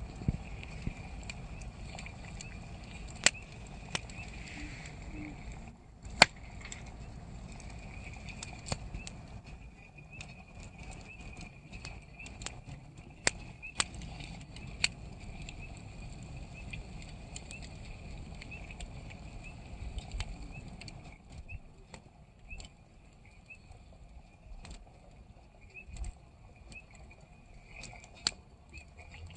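Wood campfire burning, crackling, with sharp pops at irregular intervals over a low steady rumble of the flames. It grows a little quieter in the last third.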